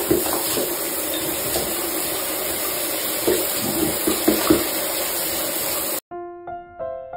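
Water running steadily from a tap or shower in a tiled bathroom, an even hiss, with a few short louder sounds over it. About six seconds in it cuts off and soft piano music begins.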